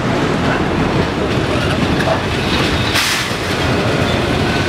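Passenger train coaches rolling past at close range: a steady loud rumble and rattle of wheels on the rails, with a sharper burst of noise about three seconds in.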